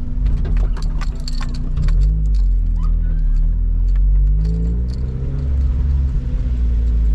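Engine of a manual rear-wheel-drive car heard from inside the cabin, running under load with the revs rising and falling a couple of times. Scattered light clicks and taps come in the first couple of seconds.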